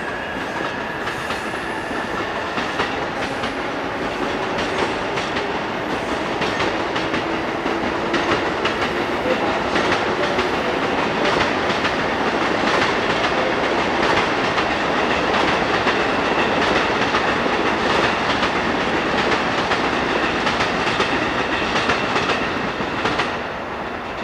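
Train running past on the rails, its wheels clattering steadily over rail joints. The sound grows louder over the first half and drops off suddenly about a second before the end.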